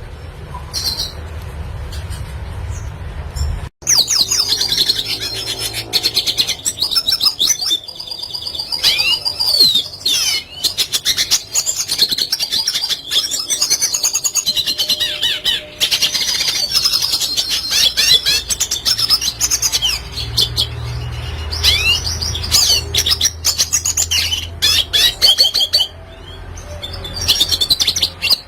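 Red siskin singing a long, fast twittering song full of rapid clicks and quick up-and-down notes. The song starts about four seconds in, after a sudden cut from a low rumble with faint chirps, and runs over a steady low hum.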